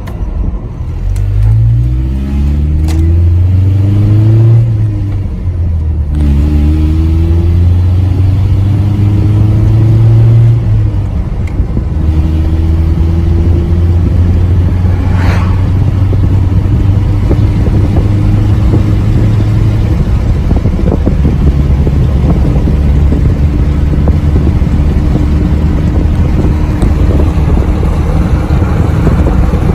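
Truck engine accelerating through the gears: its pitch climbs and drops back at each shift, about four and eleven seconds in, then it settles into a steady cruising hum.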